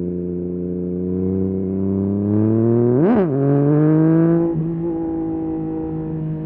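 2023 Yamaha MT-09 SP's three-cylinder engine through a full Akrapovic race exhaust, running steadily under way with its pitch slowly climbing. About three seconds in, a quick sharp rev rises and falls; the engine then pulls at a higher pitch and eases off slightly a little later.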